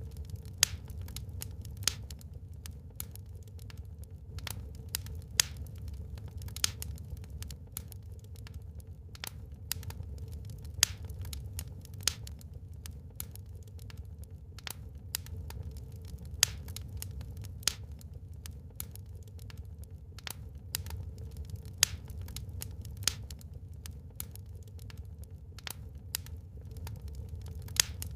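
Wood fire in a fireplace crackling, with irregular sharp pops and snaps, several loud, over a low steady rumble of the flames.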